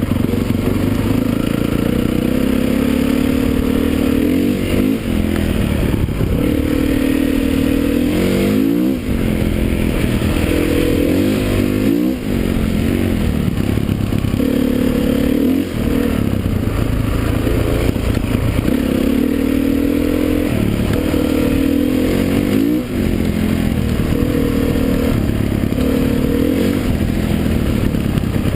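Motocross motorcycle engines at racing speed. The engine pitch climbs, then drops again every few seconds, with short dips as the throttle is shut or a gear changes.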